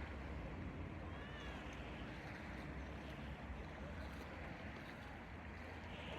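Steady outdoor noise at the seashore with a low rumble of wind on the microphone, and a short high chirp about a second in.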